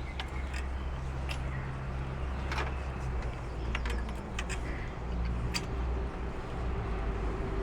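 Starter motor cranking a freshly rebuilt Honda VTEC four-cylinder engine in a steady, even drone without it catching, with a few light clicks over it.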